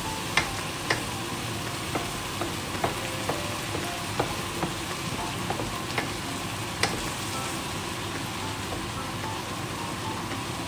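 Ground meat and diced zucchini sizzling steadily in a frying pan while being stirred. A wooden spatula knocks sharply against the pan about a dozen times in the first seven seconds.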